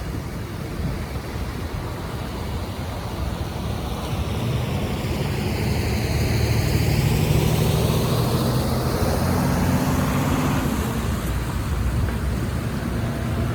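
A road vehicle passing by, growing louder about four seconds in and fading again near the end, over a steady rushing noise.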